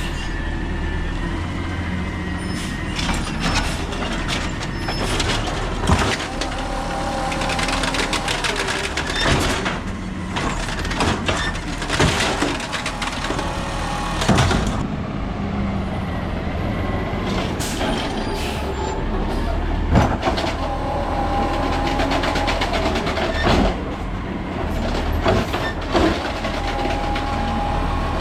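Peterbilt 320 garbage truck with an Amrep automated side-loader body working a pickup: the engine runs steadily while the loader slams repeatedly, giving a string of sharp bangs and knocks, with a few whining tones in between.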